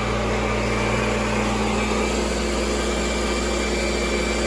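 Kirby G4 upright vacuum cleaner running steadily with a loud motor and fan whir. Its hum shifts slightly about two seconds in.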